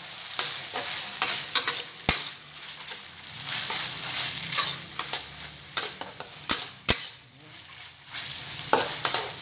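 Chopped chillies for sambal balado sizzling in oil in a metal wok while a metal spatula stirs them, with sharp scrapes and knocks of the spatula against the wok several times.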